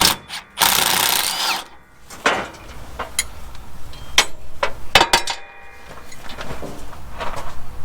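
A power tool runs for about a second, undoing a fastener, followed by a series of sharp metal clicks and knocks as tools and parts are handled.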